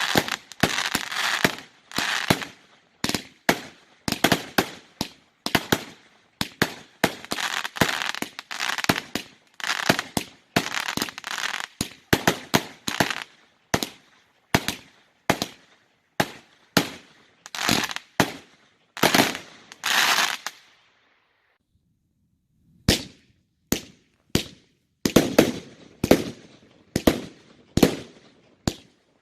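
Consumer fireworks firing in a rapid string of bangs, two or three a second, with crackling between them. The bangs break off for about a second and a half near two-thirds of the way through, then carry on with deeper thuds.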